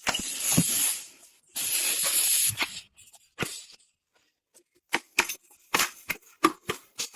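Two bursts of hissing spray, each about a second long, followed by scattered short clicks and knocks.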